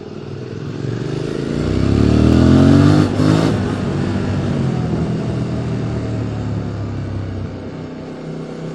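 QJ Motor SVT650X's parallel-twin engine through an Arrow Racetech slip-on exhaust, accelerating: the pitch climbs for a second or two, breaks and drops at a gear change about three seconds in, then the engine pulls on more steadily, easing off slowly.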